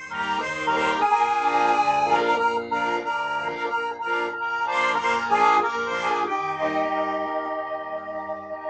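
Accordion playing a tune, with sustained chords held under a moving melody.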